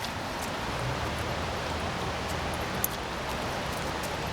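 Steady hiss of rain and water over a flooded yard, with a few light ticks and one sharper tick about three seconds in.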